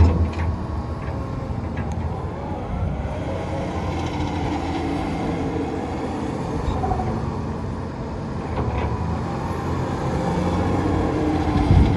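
Komatsu PC210LC-10 track excavator's diesel engine running steadily, with a loud clunk at the start and a brief surge in level near the end.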